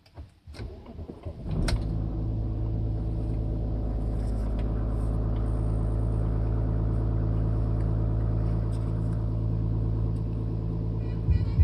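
Audi A4 (B7) V6 TDI diesel engine cold-starting at −7 °C: a few clicks, then the engine catches suddenly about a second and a half in and settles into a steady idle.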